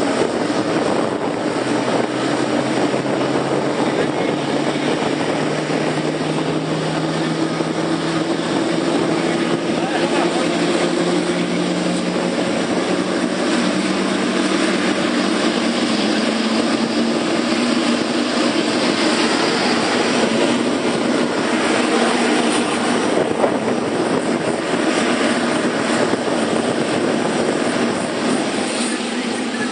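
Airliner jet engines running loud and steady, with a low tone that rises slowly in pitch over the first half as the engines spool up for take-off.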